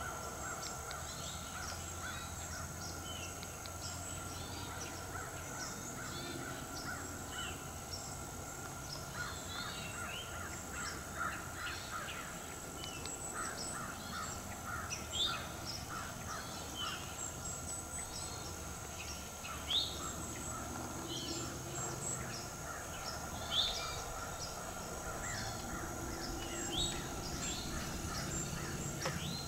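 Wild birds calling in woodland: many short, scattered chirps, with a run of quick, harsher notes in the middle.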